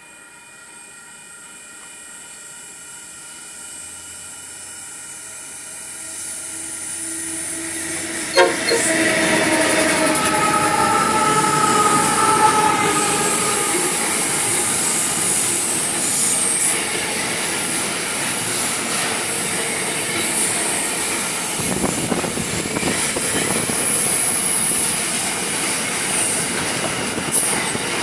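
Freight train approaching and passing close, growing steadily louder over about eight seconds, then a loud, continuous rush of wagons going by, with wheels clattering and high-pitched wheel squeal.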